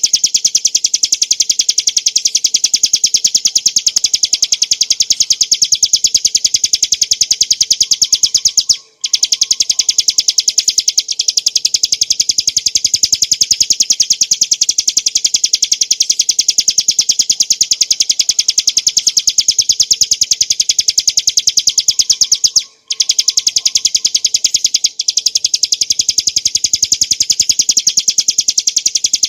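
Ciblek gunung (a small prinia) singing a fast, continuous trill of rapid high notes, broken by brief pauses about 9 seconds in and again about 23 seconds in.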